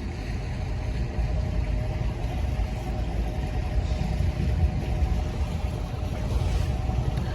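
Speedboat engine running steadily, a heavy low rumble with a steady hum over it.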